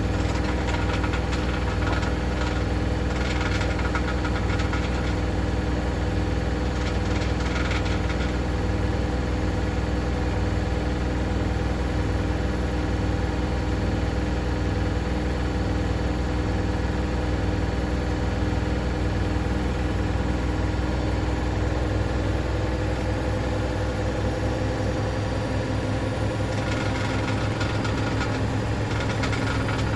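Hoover DynamicNext DXOA410C3 washing machine running, its motor and drum giving a steady hum over a pulsing low rumble. About two-thirds of the way through the rumble quickens as the drum speed changes.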